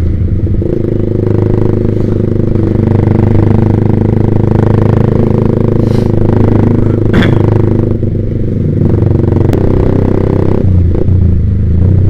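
Yamaha Vixion's single-cylinder four-stroke engine running through a Proliner TR1 R aftermarket racing exhaust while riding. The engine note dips and picks up again a few times as the throttle changes.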